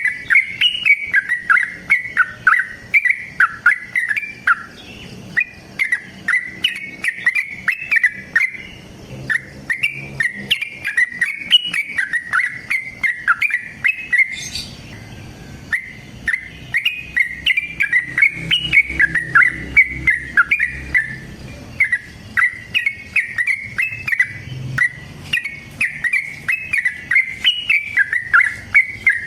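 Yellow-vented bulbul (trucukan) singing in long, rapid runs of short bubbly notes, broken by brief pauses. It is the lively, aggressive song that bird-keepers use as a lure to set other bulbuls calling.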